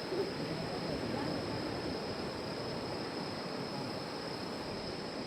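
Wood campfire burning, a steady rush of flame with soft, dense crackling and one slightly sharper pop just after the start. A thin, steady high tone runs underneath.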